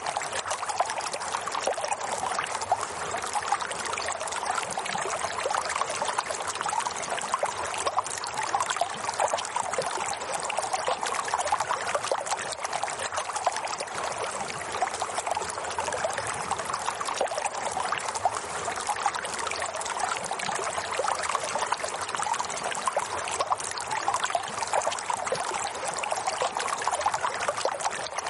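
Running water trickling and babbling steadily, with no breaks or changes.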